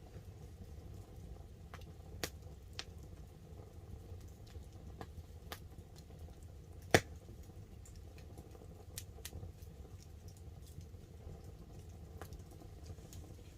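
Wood campfire crackling, with scattered sharp pops; the loudest pop comes about seven seconds in. Light rain patters on the tarp beneath it as a low, steady hiss.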